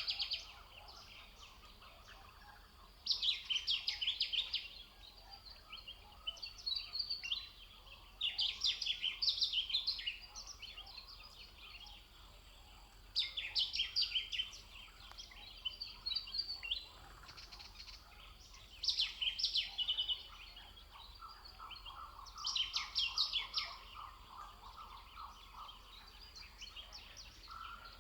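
A songbird singing a short phrase of rapid, high notes over and over, about every five seconds. A lower, steadier trill runs underneath for a few seconds near the end.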